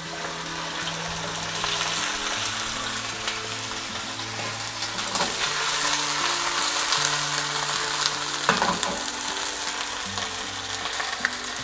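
Blanched broccoli rabe sizzling as it lands in hot garlic and olive oil in a frying pan, the sizzle swelling over the first couple of seconds and carrying on steadily. Soft background music with held low notes plays underneath.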